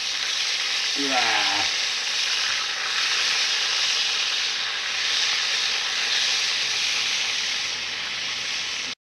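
Meat sizzling steadily on a grill over a campfire, with a loud even hiss that cuts off suddenly near the end.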